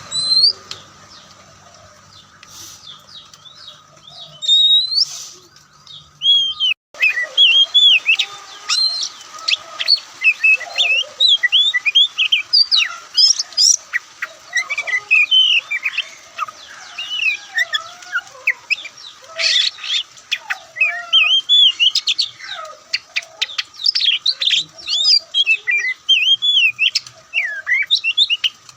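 Oriental magpie-robin singing: a few separate whistles at first, then from about seven seconds in a fast, unbroken run of varied whistled phrases mixed with sharp clicks.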